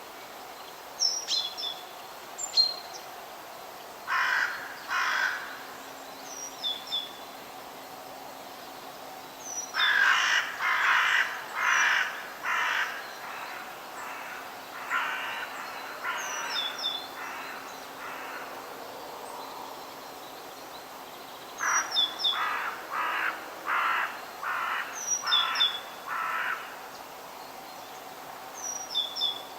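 Birds calling in forest ambience. Bouts of harsh calls come two to six at a time, about two a second, and short high chirps from a smaller bird recur between them, over a steady faint background hiss.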